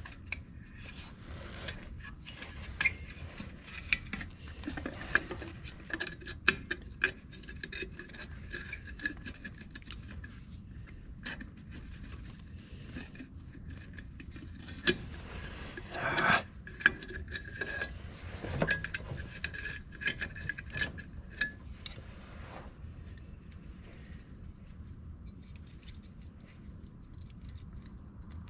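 Small clicks, taps and scrapes of a headlight bulb's spring retaining clip and housing being worked by hand as the clip fails to lock down, with a few louder knocks; the handling dies away about two-thirds of the way through.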